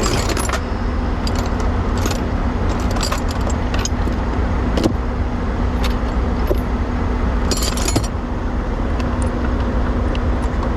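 Metal tools and sockets clinking in scattered bursts as they are sorted through, over the steady idle of a truck's diesel engine.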